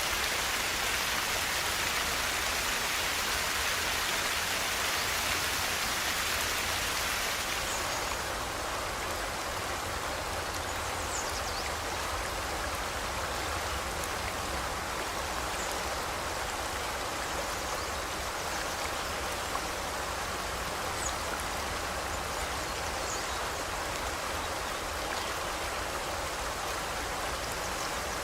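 River water flowing in a steady rush, its hiss turning slightly softer and duller about eight seconds in. A few faint, brief bird chirps sound over the water in the second half.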